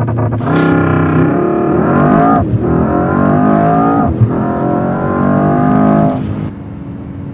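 Mercedes-AMG S63 E Performance's twin-turbo V8 accelerating hard, its note climbing in pitch through the gears with two quick upshifts, each dropping the revs before they climb again. About six and a half seconds in it falls back to a quieter, steady run.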